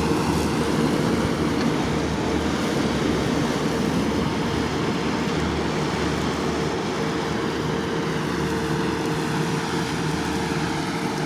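Steady outdoor engine drone: road traffic running on the parkway, with a constant engine hum held at one pitch throughout.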